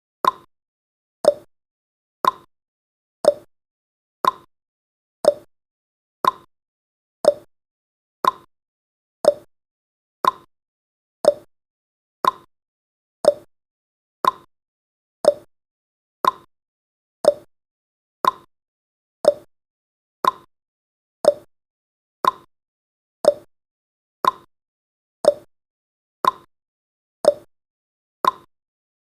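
Clock-tick sound effect of a countdown timer, one sharp tick each second, alternating between a higher and a lower tick like a tick-tock.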